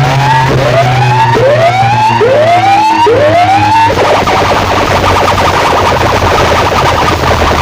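DJ sound-box speaker stack blasting a siren-like effect: rising whoops about one every 0.8 seconds over a steady bass drone. About four seconds in, it changes to a dense buzzing rattle.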